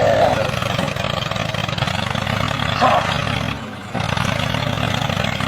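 Tractor engine running steadily, with a short dip in level just before four seconds in.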